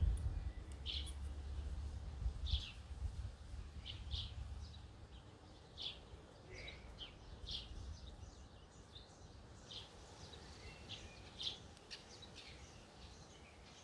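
A bird repeating short, high chirps about every one to two seconds, over a low rumble that dies away a few seconds in.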